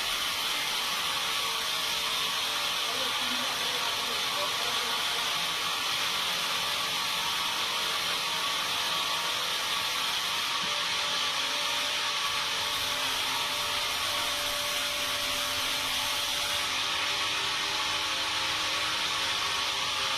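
Sawmill machinery running steadily: a constant hiss-like noise with a faint steady motor hum beneath it.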